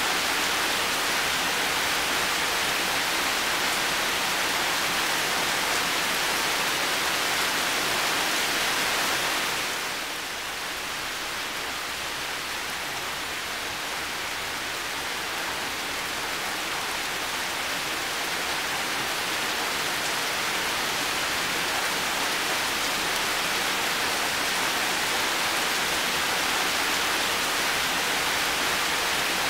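Heavy rain falling in a steady hiss, easing slightly about ten seconds in and slowly building back up.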